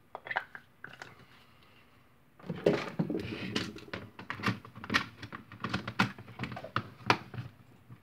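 Plastic parts of a Nerf Hammershot blaster clicking and knocking as it is put back together. A few clicks come in the first second, then a dense run of sharp clicks and taps starts about two and a half seconds in.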